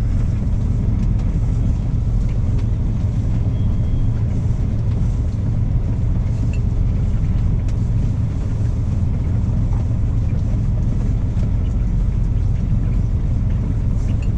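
Semi-truck's diesel engine running, a steady low rumble that holds even throughout.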